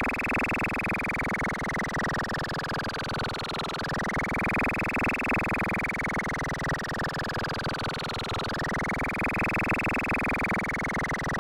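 Electronically altered police car siren wailing: the pitch sweeps quickly up and then slides slowly down, repeating about every four and a half seconds, over a dense low buzz.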